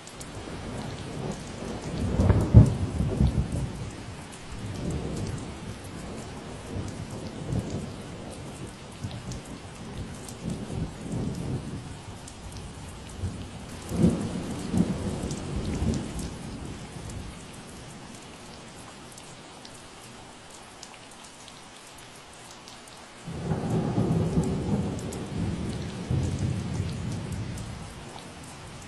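Steady rain falling, with low rumbles of thunder that swell and fade: a strong one about two seconds in, another around the middle, and a longer one near the end.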